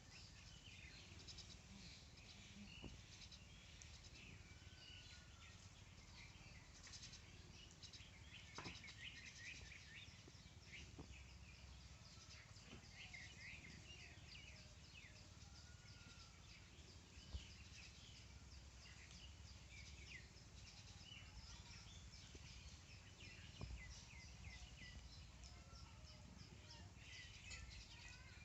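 Small birds chirping faintly: rapid high chirps go on throughout, with a few short, arching whistled notes now and then, over a low steady rumble.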